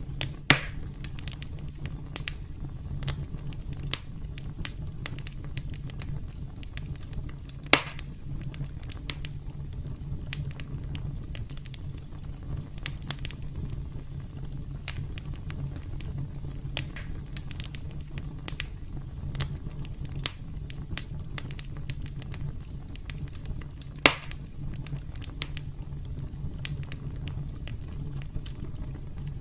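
Campfire crackling: a steady low rumble with many small crackles throughout. Three sharp, louder pops stand out, about half a second in, about eight seconds in and about 24 seconds in.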